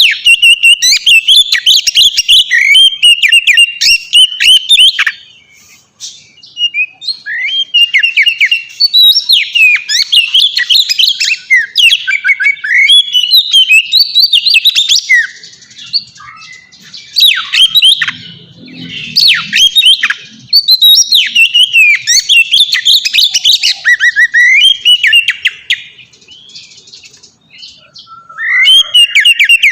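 Oriental magpie-robin (kacer) singing a loud, varied song of clear whistles and rapid chirps, delivered in long phrases with short pauses about five seconds in and again near the end.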